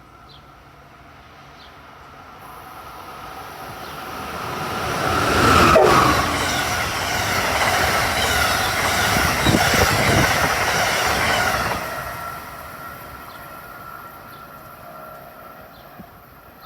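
Train passing at speed: its sound builds as it approaches and is loudest about six seconds in, where a tone drops in pitch as it goes by. The rush of the train and its wheels on the rails carries on for about six seconds, then fades away.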